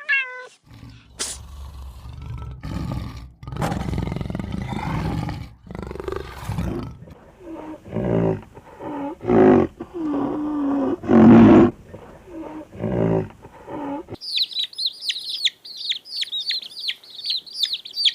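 A large animal roaring and growling in a string of loud, deep calls for about thirteen seconds. The roaring stops abruptly and a small bird starts chirping rapidly, about three to four chirps a second.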